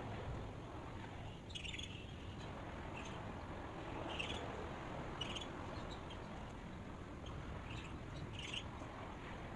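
Birds chirping in short, separate calls about once a second over a steady background hiss.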